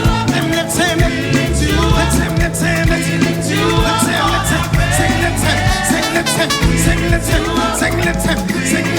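Live gospel praise and worship music: a full band with drums and bass, and singers.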